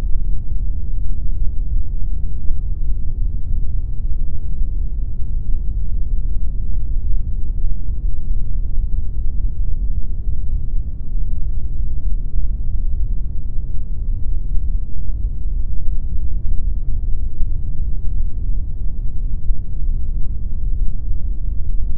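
Steady pink noise: an even, unchanging rushing hiss, deep and heavy in the bass with almost nothing high.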